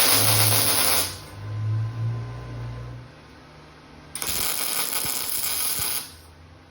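Two short bursts of welding on thin sheet-metal drawer boxes, each an even crackle lasting under two seconds, the second starting about four seconds in, with a low hum between them early on.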